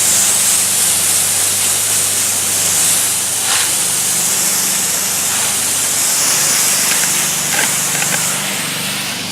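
Water spraying from a garden hose under pressure, a steady hiss, as the newly fitted hose connector is tested. A steady low hum runs underneath.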